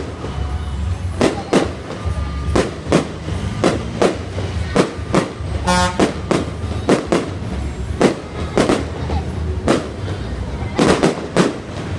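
Aerial fireworks going off: a run of sharp bangs, roughly one or two a second, over a steady low rumble. About halfway through, a short horn-like tone sounds once.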